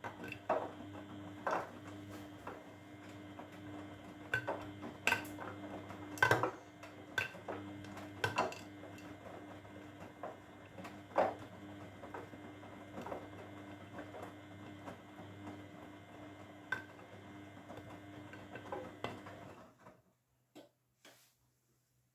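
Grundig washing machine running its wash cycle: a steady motor hum with irregular clinks and knocks as the laundry tumbles in the drum. About 20 seconds in, the hum cuts off suddenly, leaving a few faint clicks.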